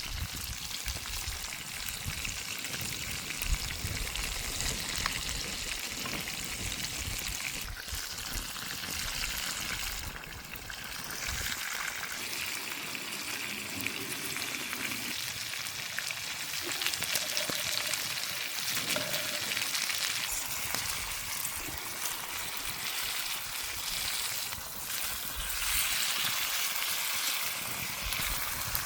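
Chicken sizzling as it grills over a campfire: a steady hiss with fine crackling.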